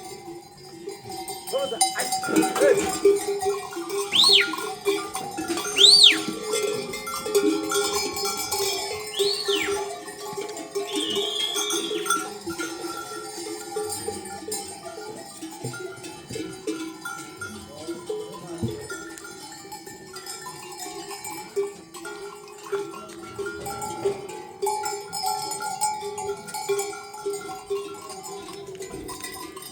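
Many livestock bells on a flock clanking and ringing together, with a few quick high whistle-like glides in the first ten seconds.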